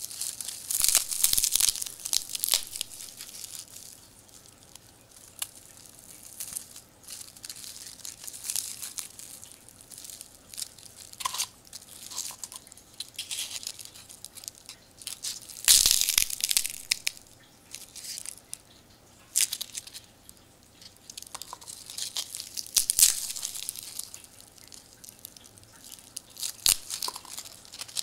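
Empty paper wasp nest being cut and picked apart: dry, papery crackling and tearing in irregular bursts, with the loudest rips about a second in, midway, and again some seconds later.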